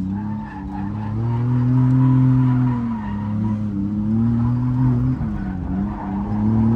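Turbocharged BMW E30 drift car's engine held at high revs while drifting, its note dipping briefly and climbing back about four times as the throttle is worked, with tyres squealing and skidding.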